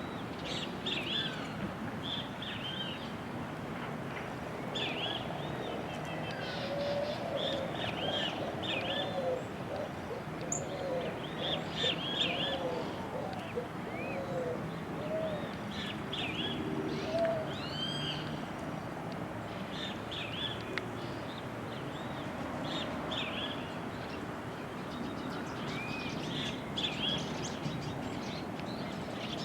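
Birds calling: clusters of short, high chirps repeat throughout, and a lower call repeats many times from about six to eighteen seconds in.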